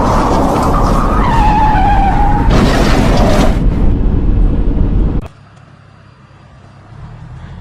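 Car tyres squealing in a skid over loud road rumble, with a loud rushing burst about two and a half seconds in; the sound cuts off suddenly about five seconds in.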